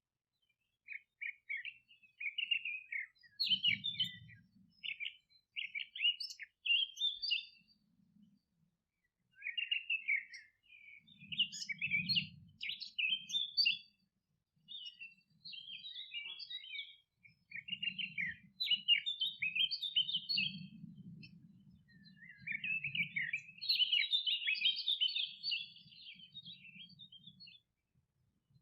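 Songbirds singing in bursts of rapid, high chirping phrases with short pauses between them, with a faint low rumble underneath at times.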